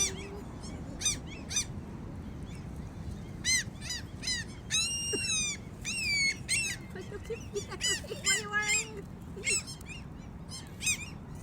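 Gulls calling: many short, high cries, some overlapping, with one longer drawn-out call about five seconds in, over a steady low background hum.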